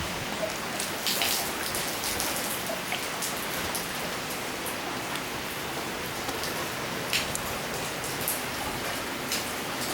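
Rain falling: a steady hiss with scattered light drop ticks.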